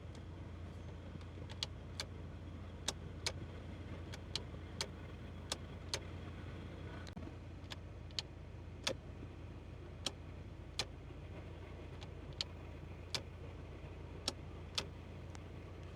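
Citroën XM engine running with a steady low hum inside the cabin. Over it comes a sharp mechanical clicking, mostly in pairs about once a second, typical of a turn-signal relay.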